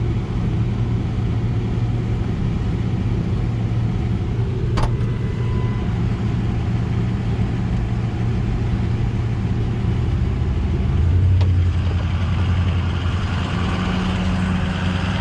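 Truck engine idling steadily; about 11 seconds in its note drops lower and gets louder, with more hiss joining near the end. A single sharp click about five seconds in.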